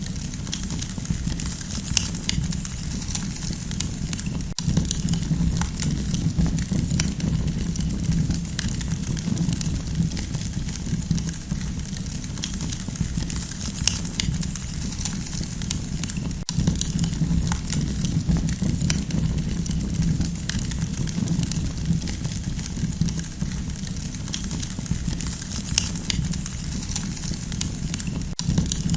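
Campfire crackling: a dense, irregular scatter of small pops and snaps over a steady low rumble of the burning fire.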